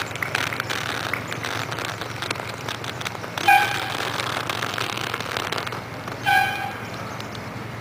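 Two short horn beeps, about three seconds apart, over steady outdoor street noise.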